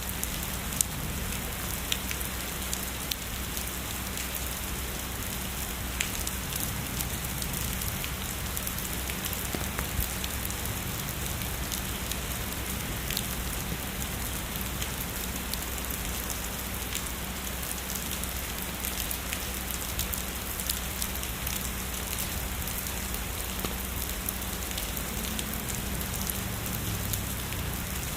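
Steady heavy rainfall, an even hiss with scattered sharper raindrop ticks striking a surface.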